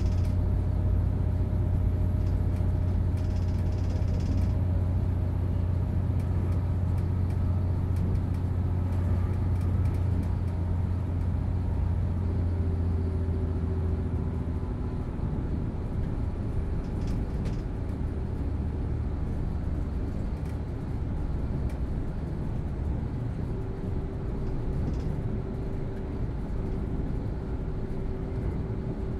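Inside a motor carriage of a Hitachi Class 805 bi-mode train running under diesel power: a steady deep drone from the underfloor diesel engine and running gear, with a few steady tones above it. About halfway through the deep hum eases and drops a little, and a few faint clicks come later.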